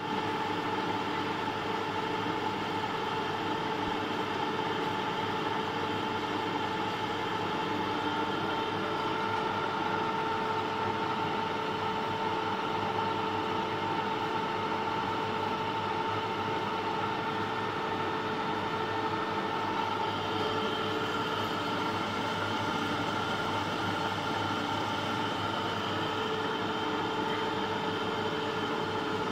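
Electric machinery running steadily, a constant hum with a steady high whine over an even mechanical noise.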